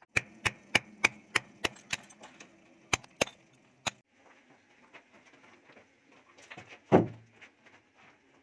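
A quick run of sharp knocks, about three or four a second, then a few more after a short pause, and one heavier, deeper thump near the end.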